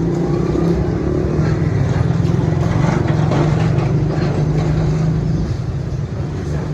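Machinery running with a steady low hum.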